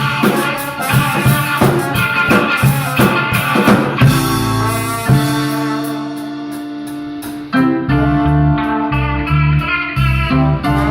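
Live instrumental band, with guitar out front over bass and drums. A busy, drum-heavy passage settles into held notes that fade, then the full band comes back in with a steady groove about three-quarters of the way through.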